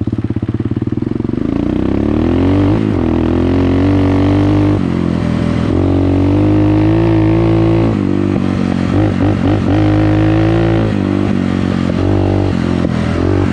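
Dirt bike engine pulling away and accelerating. The pitch climbs about a second and a half in, then falls back and climbs again several times as the throttle is opened and eased.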